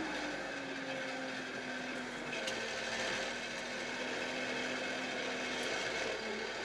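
Kioti RX7320 tractor's diesel engine running steadily under plowing work, with a faint steady hum and a few light ticks.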